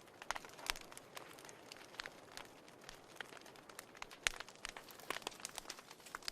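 Wood fire in a fireplace crackling: irregular sharp pops and snaps over a soft hiss, the loudest pops a little under a second in and just after four seconds.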